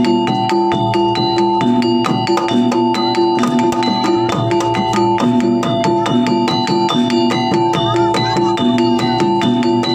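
Live jaranan pegon music: a traditional Javanese ensemble playing a repeating melody in struck, mallet-like notes over a fast, dense drum pattern, with a sustained held tone underneath.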